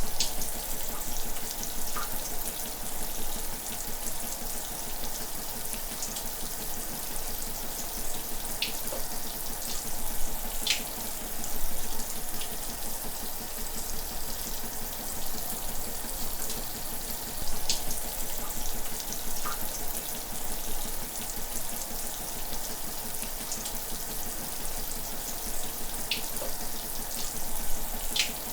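Shower running: a steady hiss of falling water, with a brief splash every few seconds.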